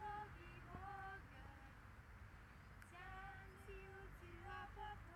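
Young lamb bleating: faint, high, wavering calls in short runs, at the start, about a second in, and again several times from about three seconds in.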